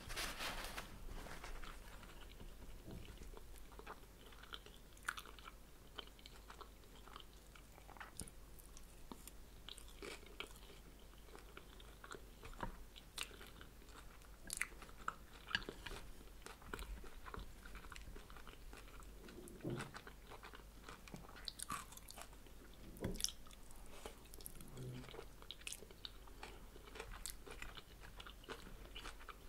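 Close-miked chewing and biting while eating fried spring rolls and bean sprouts, with scattered short crunches and clicks.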